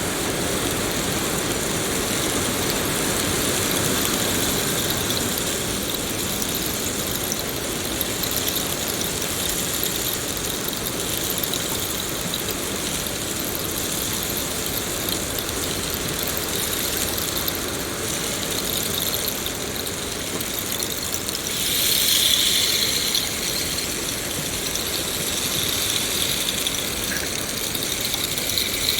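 Steady rain falling, an even hiss with no break, with a brief louder surge of hiss about three quarters of the way through.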